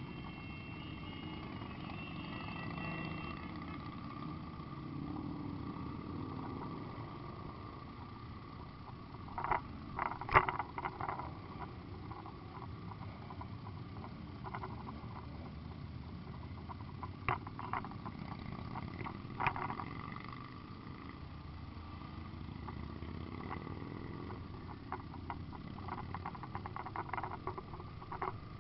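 Several motorcycle engines running together, their pitch slowly rising and falling as bikes idle and move off, with scattered sharp knocks.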